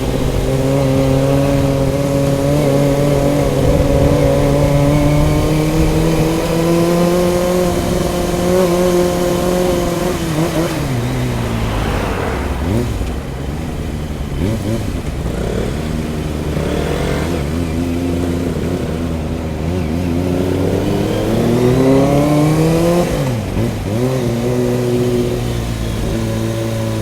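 Motorcycle engine under way, holding a steady pitch, then dropping as it slows about ten seconds in. It climbs again about twenty-one seconds in and drops sharply just after, as on a gear change.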